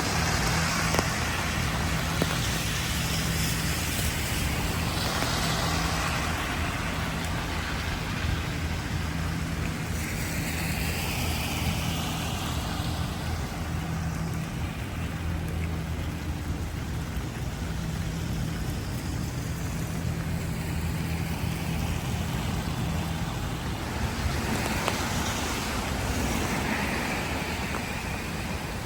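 Traffic on a rain-soaked street: cars hiss past on the wet road every few seconds, with rain over a steady low engine hum from a nearby vehicle that stops about 23 seconds in.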